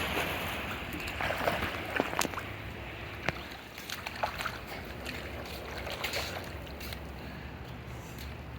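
Pool water splashing and sloshing as someone swims, with a few sharp splashes in the first half, over a steady low rumble.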